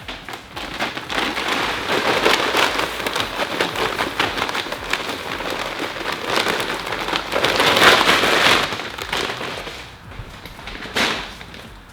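Granular oil-dry absorbent being poured out onto spilled coolant on the floor: a dense hiss of many small grains landing, swelling about eight seconds in and dying away near the end, followed by a single knock.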